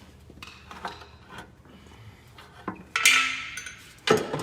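Metal knocks and clanks from an engine oil pan being worked loose and lowered, with a louder scraping clatter about three seconds in and a sharp knock near the end.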